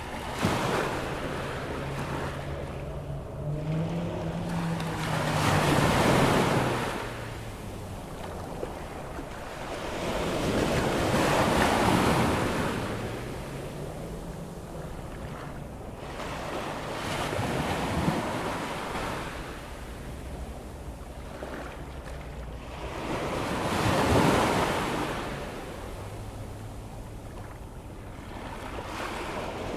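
Ocean surf: waves breaking on the beach about every six seconds, each one building to a loud rush and then washing back. Under it runs a faint low hum that wavers in pitch.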